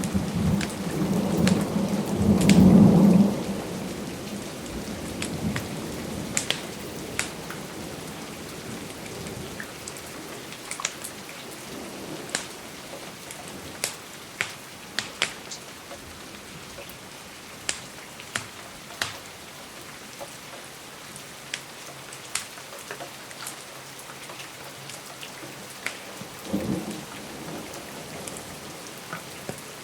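Steady rain with a rumble of thunder that dies away over the first few seconds, then an even rain hiss dotted with sharp fireplace crackles, and a short low rumble near the end.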